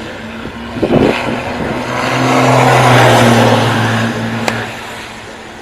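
A racing vehicle's engine passing by: a steady low engine note that swells to its loudest about three seconds in, then fades. There is a thump about a second in and a sharp click near the end.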